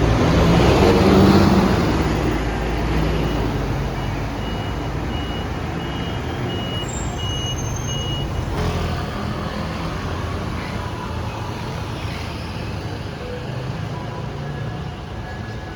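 Street traffic: a vehicle passes loudly in the first two seconds, then a high electronic beep repeats about six times, a little faster than once a second, over steady traffic noise.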